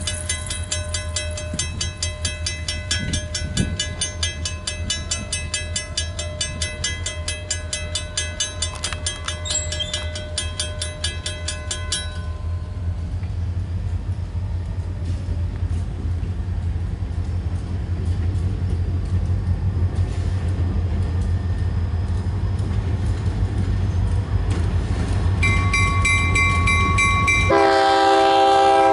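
Railroad crossing bell ringing rapidly over the low rumble of approaching diesel locomotives; the bell stops about twelve seconds in while the rumble grows louder. Near the end a locomotive horn sounds, then swells into a loud chord.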